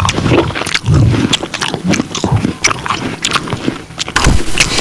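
Close-miked chewing and biting: a person eating, with many short crisp clicks through the mouth sounds.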